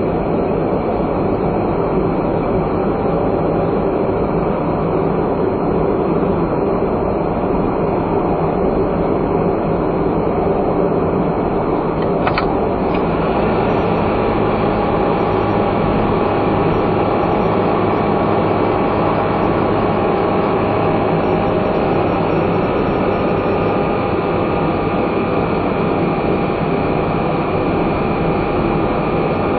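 Non-turbo kei car driving steadily, its engine and tyre-and-road noise heard from inside the cabin as an even drone, with one brief click about twelve seconds in.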